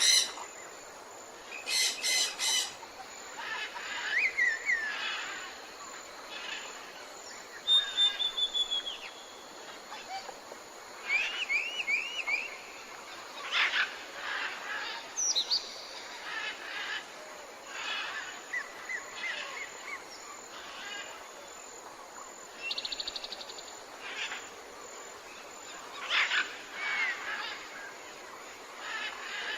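Tropical forest birds calling and singing, several species overlapping: short repeated calls, quick rising and falling whistles and a brief fast trill about two-thirds of the way through, over a faint steady hiss.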